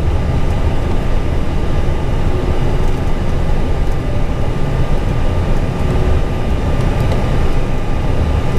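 Steady low rumble inside an Airbus A320 cockpit during taxi, with a faint, steady high-pitched whine running through it.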